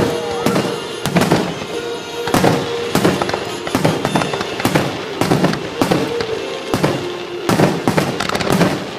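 Fireworks display: aerial shells bursting in quick succession, roughly two sharp bangs a second, with music playing underneath.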